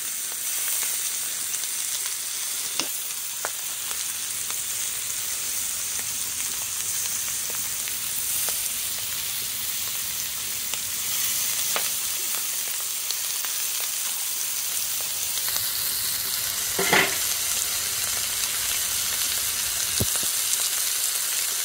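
Jumbo shrimp frying in butter and olive oil on a 17-inch Blackstone flat-top griddle, searing on their first side. A steady sizzle with a few small pops and one louder, brief crackle about three quarters of the way through.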